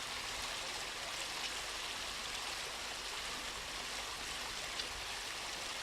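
Steady rush of river water flowing over a weir.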